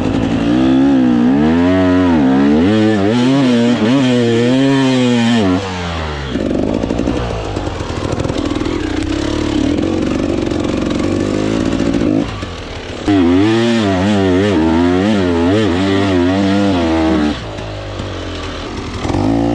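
Dirt bike engine revving up and down in quick repeated swings of pitch as it is ridden over a trail. It drops to a steadier, quieter run for several seconds in the middle, then revs hard and unevenly again.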